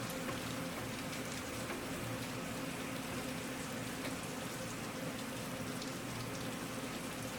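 Steady rain, with scattered individual drops ticking on a surface.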